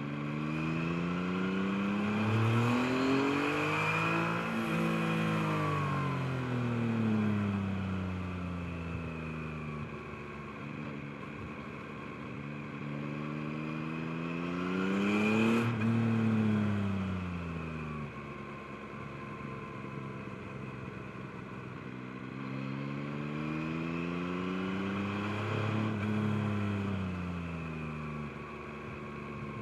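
Yamaha MT-09's 890 cc inline-three engine under way, its revs climbing and falling away three times as the bike accelerates and eases off. The biggest and loudest rise comes about halfway through.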